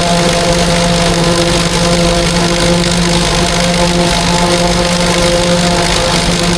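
Heavy farm machinery engine running steadily at constant speed under working load during corn silage chopping: an even drone with a strong low hum and no change in pitch or level.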